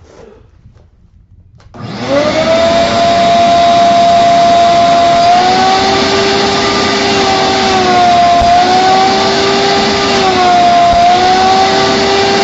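A shop vac switches on about two seconds in, its motor spinning up to speed, then runs loudly and steadily while sucking soapy water out of a cloth seat cover. Its pitch dips and rises again every few seconds.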